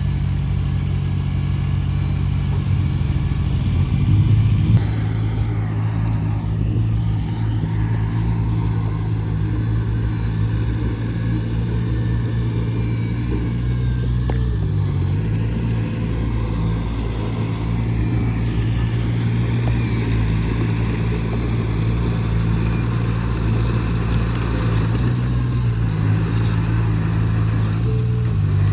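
Heavy earthmoving machine's diesel engine running steadily, with a brief louder surge about four and a half seconds in and short dips in engine pitch around the middle and near the end.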